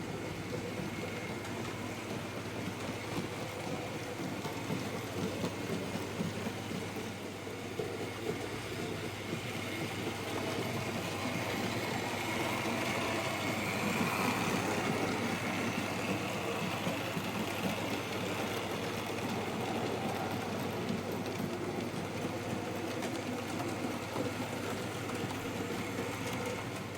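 Model train running around the layout's track, its motor and wheels making a steady rolling hum that swells in the middle as the train passes closer and eases off again near the end.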